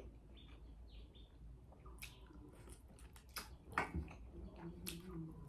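Quiet chewing and mouth smacks of someone eating chicken and rice by hand, with a few soft clicks about two, three and a half, four and five seconds in. Faint short bird chirps sound in the background during the first second or so.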